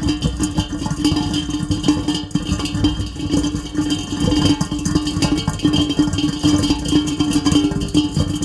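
Heavy rain pattering densely and without a break, with a steady low tone held underneath.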